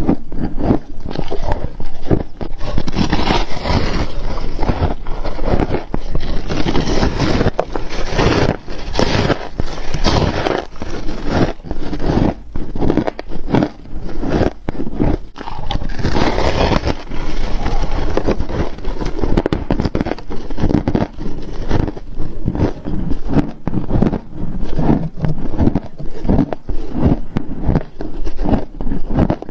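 Close-up crunching and chewing of frost, a dense run of crackling crunches, played in slow motion so it sounds deep and drawn out. The crunching is thickest for several seconds near the start and again about halfway through.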